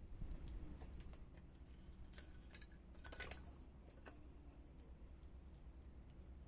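Faint, scattered crackles and pops of a small burning wood fire, a few sharp clicks with a brief cluster about three seconds in.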